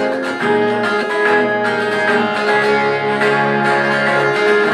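Acoustic guitar strummed in a steady rhythm, playing a song's intro chords, with the bass notes changing every couple of seconds.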